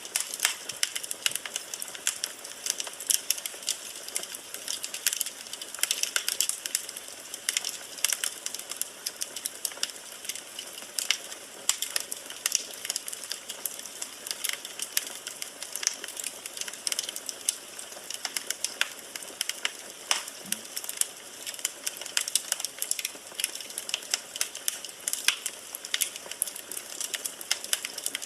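Firewood burning in a fireplace: dense, irregular crackling and snapping over a steady hiss.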